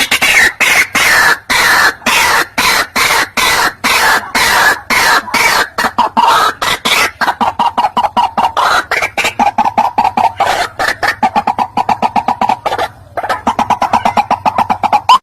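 White-breasted waterhen calling: a loud, fast run of short, harsh repeated notes, several a second, with a brief break near the end.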